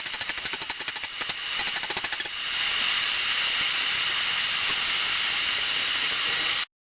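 Rapid, evenly repeated hammer blows on hot steel, about eight to ten a second, while a cutlass tang is being forged. About two seconds in they stop, leaving a steady hiss.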